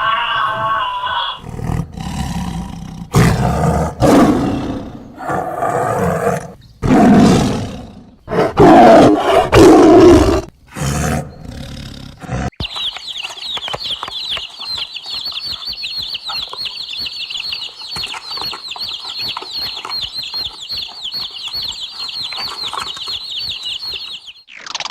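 A large animal gives a series of loud, harsh roars over about ten seconds. They give way to a steady, high-pitched, rapid trill that runs on for about twelve seconds, like an insect's buzz.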